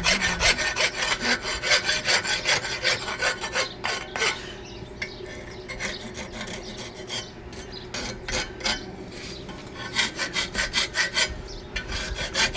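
Hand file stroking across a forged horseshoe toe clip, dressing its edges. Quick rasping strokes at first, thinning out in the middle, then quick strokes again near the end.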